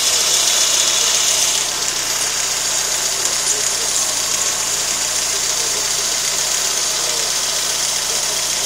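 Fiat Tempra's engine idling steadily, heard close to its Weber carburettor, with a high hiss that eases off about two seconds in.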